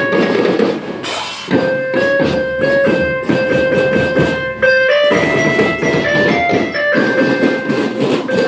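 Marching band playing a tune: held melody notes stepping up and down in pitch over a steady drum beat.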